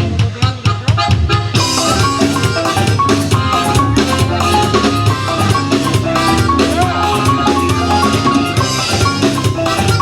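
A Tejano band playing live in an instrumental passage, with drum kit, bass and a bright, quick melody line. The first second and a half is mostly drums, and then the full band comes back in.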